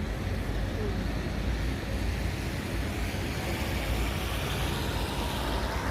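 Steady outdoor background noise: a constant low rumble with a hiss over it, with no distinct events.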